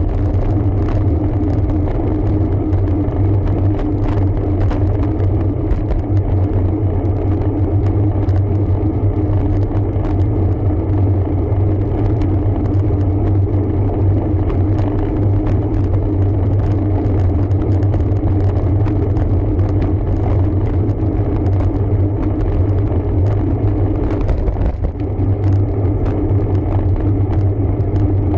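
Riding noise of a road bike: a steady low rumble of tyres on the road and wind on the microphone, with small clicks and rattles throughout.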